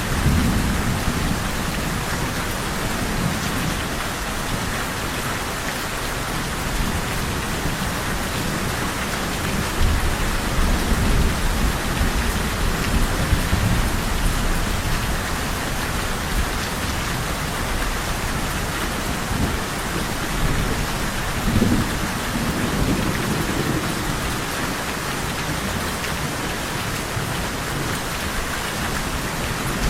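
Steady rain pattering, with low rolls of thunder rumbling underneath. The thunder swells just after the start, again around ten to fourteen seconds in, and once more a little past twenty seconds.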